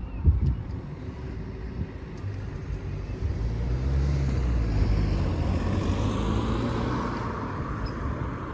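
Diesel train running past the level crossing, its low engine drone and running noise building up and loudest in the middle and later part. A sharp thump comes just after the start.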